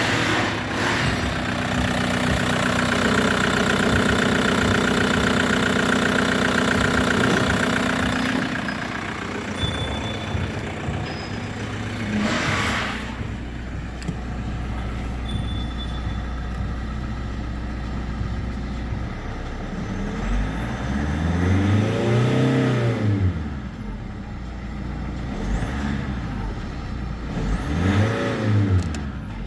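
2008 Hyundai Santa Fe 2.2 turbodiesel four-cylinder engine idling, its note changing and settling about eight seconds in. It is then revved twice, each rev rising and falling back to idle. The engine runs cleanly enough to be judged in good order.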